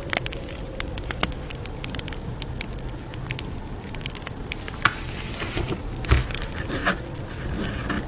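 Campfire crackling: irregular sharp pops and snaps over a low steady rumble, with a couple of louder pops about five and six seconds in.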